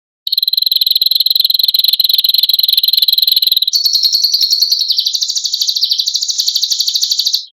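A songbird's harsh, very rapid buzzing trill, the 'besetan' (mbeset) phrase that bird keepers play as masteran to train caged birds. It holds one pitch for about three and a half seconds, then jumps higher and wavers before cutting off abruptly.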